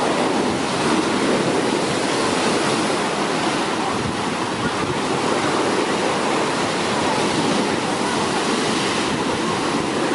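Heavy sea surf breaking and washing on a beach, a steady loud rush of water, with wind buffeting the microphone.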